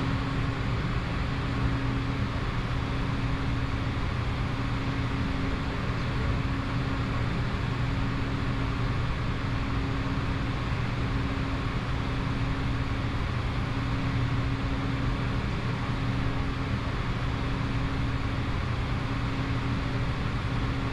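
Steady cockpit noise of a Bombardier Challenger 605 business jet in flight: an even rush of airflow with a low, constant hum underneath.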